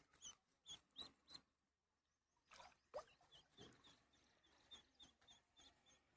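Ducklings peeping faintly: short, high peeps, a few at first, a pause, then a steady run of about three peeps a second.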